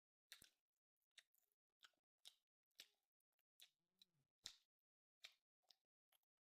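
Faint chewing of tender lamb shank meat: a dozen or so short, soft mouth clicks spaced about every half second, with a brief low hum about four seconds in.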